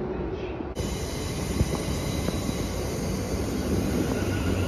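Electric multiple-unit passenger train moving along the platform: a steady rumble of wheels on rails with a faint high whine.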